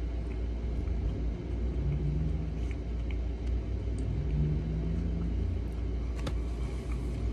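A man chewing a sandwich cookie with his mouth closed, over a steady low rumble. Two short low hums come about two and four seconds in, and two sharp clicks near the end.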